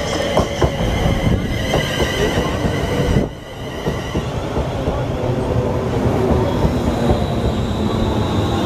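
A passenger train moving through the station at close range, with a rumble, a steady high metallic squeal and scattered clicks of wheels over rail joints. The sound dips briefly about three seconds in.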